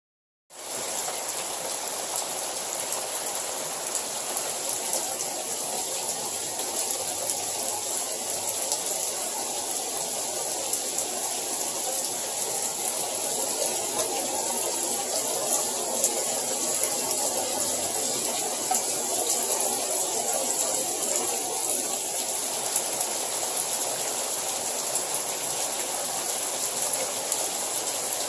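Hail and rain pelting down steadily, a dense hiss filled with many small hits.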